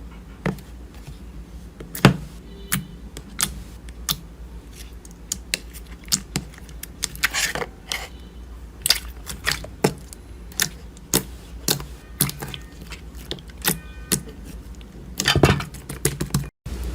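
Slime being pressed and played with by hand, giving sharp, irregular clicking pops, roughly one to three a second.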